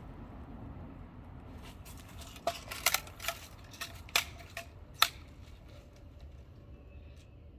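A scattered run of light, sharp clicks and clacks of small hard objects being handled, the loudest about five seconds in, over faint room tone.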